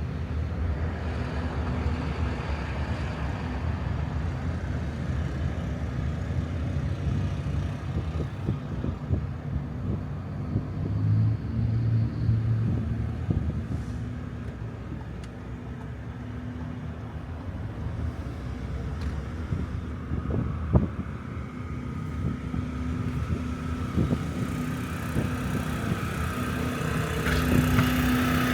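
Motor vehicle engines running, a steady low rumble with a few sharp knocks. A higher engine tone builds and grows louder near the end.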